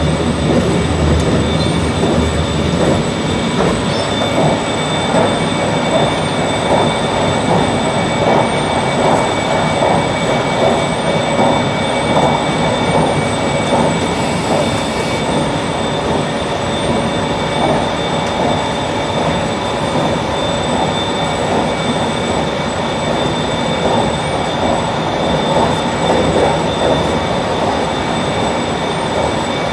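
JR Shikoku 8600 series electric train running at a steady speed, heard on board: continuous rumble of wheels on rail with a few steady high-pitched tones over it.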